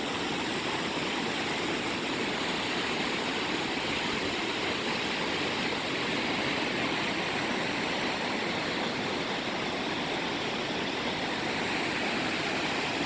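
Waterfall rushing: a steady, even roar of falling water without a break.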